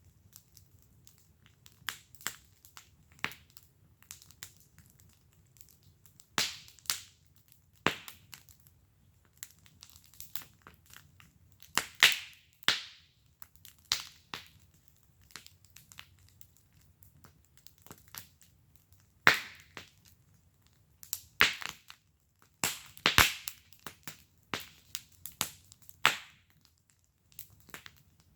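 Wood fire burning in a fire pit, crackling with irregular sharp pops and snaps, several of them loud, over a faint low rumble.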